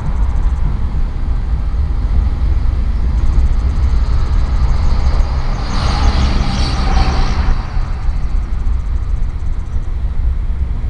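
BNSF diesel helper locomotives rumbling past, a deep, steady engine rumble, with a louder rushing hiss for a couple of seconds about halfway through.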